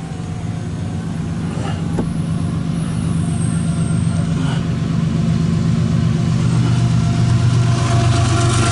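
Diesel locomotives of an approaching CSX freight train running with a low, steady engine drone that grows steadily louder.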